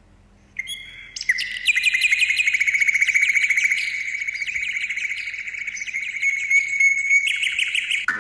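A bird singing a long, fast trill of rapidly repeated high notes, after a brief opening note, running on for several seconds.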